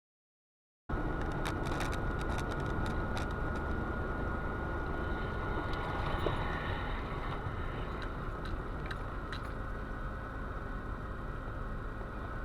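Steady rumble of a moving car, engine and road noise with a faint constant whine, starting abruptly about a second in after total silence, with a few light clicks scattered through it.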